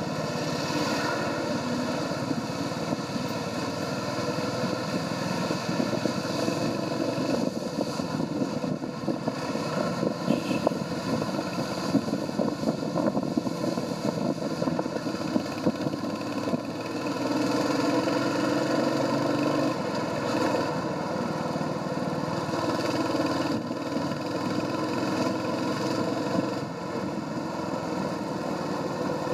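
Royal Enfield Hunter 350's single-cylinder 349 cc engine and stock exhaust running while riding, over a haze of road and wind noise. The engine note swells about two-thirds of the way through and eases off near the end.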